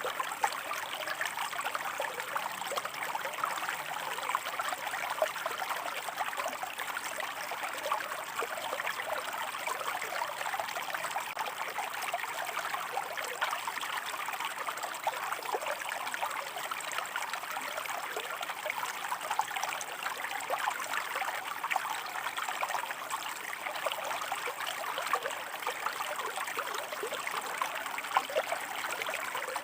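Shallow stream of water running over rocks, a steady babbling and trickling.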